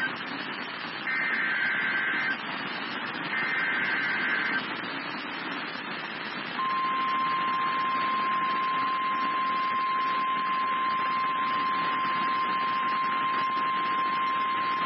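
NOAA Weather Radio alert signal heard through receiver static: two short bursts of the warbling SAME digital header tones, then about two seconds later the steady single-pitch 1050 Hz warning alarm tone starts and holds, marking the start of a Severe Thunderstorm Warning broadcast.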